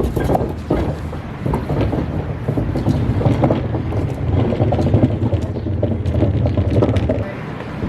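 An engine running steadily with a low hum and some rattle, cutting off about seven seconds in.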